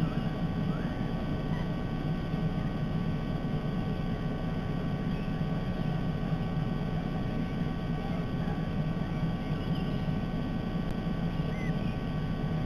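Steady low background rumble with a few faint, short bird chirps scattered through it.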